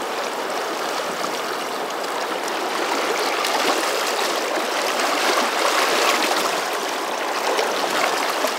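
Swift, strong current of the South Fork Snake River rushing steadily, a little louder in the middle.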